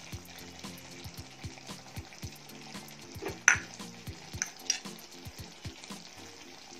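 Crabs frying in thick masala in a steel pan: a steady sizzle with scattered pops and clicks, one louder click about halfway through.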